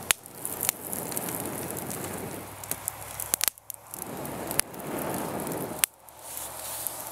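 Wood campfire crackling, with a few sharp pops over a steady hiss; the loudest pop comes about six seconds in.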